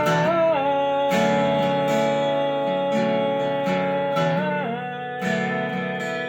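Acoustic guitar strumming chords, with a held higher melody note over them that slides down in pitch twice, about half a second in and again near the end.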